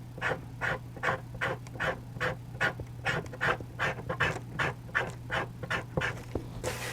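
Tombo Mono eraser rubbing back and forth on charcoal paper in short, even strokes, about two and a half a second, lifting charcoal to put in highlights.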